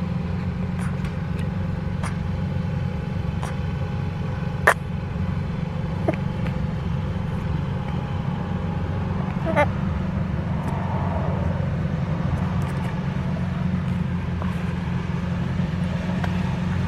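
Steady low road and engine rumble heard inside a moving car's cabin, with a couple of light clicks or knocks.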